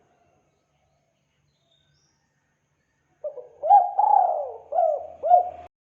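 Spotted dove (tekukur) cooing: one phrase of several low coos starting about three seconds in and cutting off suddenly, played as a lure call for trapping the bird.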